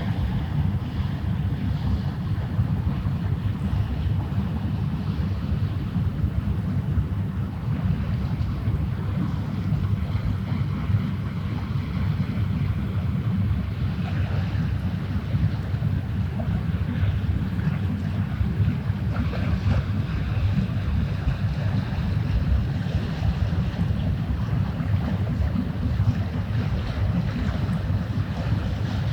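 Wind buffeting the microphone: a steady, rough low rumble that does not let up.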